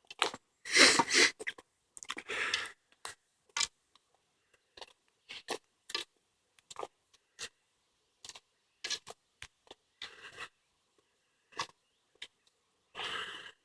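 Footsteps on a woodland path: irregular crunches and scrapes of leaves and twigs underfoot, with three longer scuffs about a second in, near two seconds and near the end.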